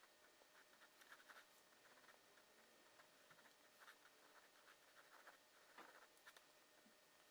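Faint scratching of a drawing tool on paper, a series of short irregular strokes.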